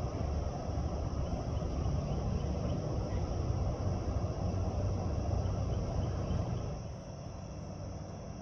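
Steady low rumble that eases a little near the end, with a faint, steady high insect drone above it.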